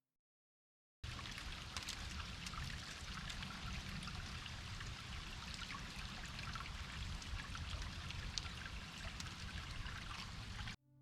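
Water trickling in a small stream, a steady babble of tiny splashes, starting about a second in and cutting off suddenly near the end.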